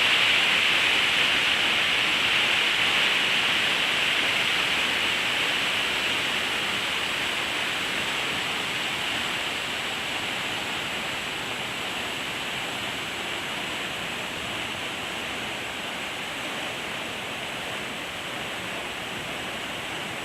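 Waterfall: a steady rush of falling water that slowly grows quieter.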